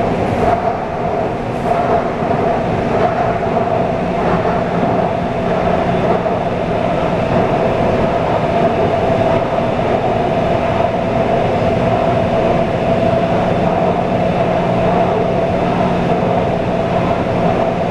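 Taipei Metro C341 train running at a steady speed: a steady hum that holds one pitch over a continuous rumble of wheels on rail.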